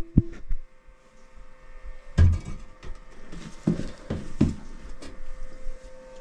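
A few separate knocks and clunks, with light rustling in between, as hard parts are handled around a toilet flange and its closet bolts.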